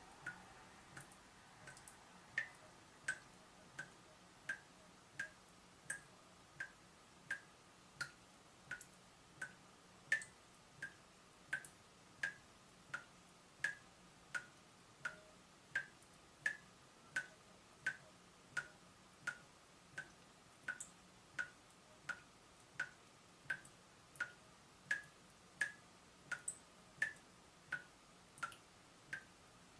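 Water dripping from a leaking tap: a short plink about every 0.7 seconds at a steady rhythm.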